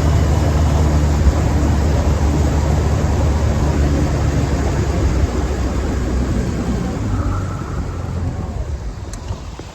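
Boat motor running steadily under way, with a loud rushing noise over it; it eases off over the last few seconds.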